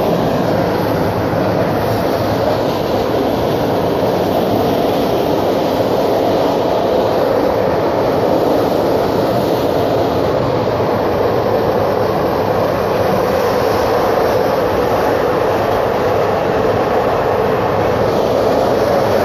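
Passenger train in motion, heard from inside the carriage: a steady, even running noise of the wheels and coach that holds the same level throughout.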